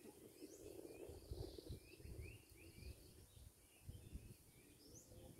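Faint outdoor ambience: small birds giving short rising chirps, several in a row about two seconds in, over a low irregular rumble.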